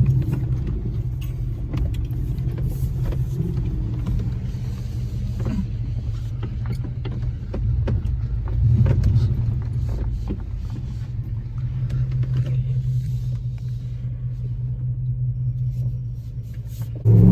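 Truck engine running at low speed over rough ground, heard from inside the cab, with short knocks and rattles from the body over the bumps. The engine note swells twice, around the middle, and eases off near the end.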